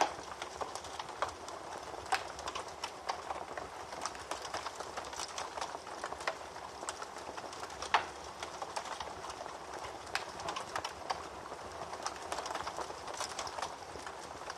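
Wood fire crackling in a fireplace: a steady hiss with many small pops and a few louder snaps, the loudest right at the start and about eight seconds in.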